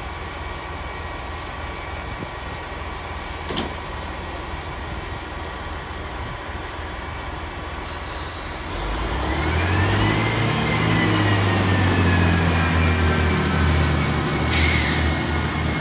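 Diesel train engine idling with a steady low hum, then about nine seconds in it powers up loudly to pull away, with a whine that rises and then slowly falls. A short hiss of air comes near the end.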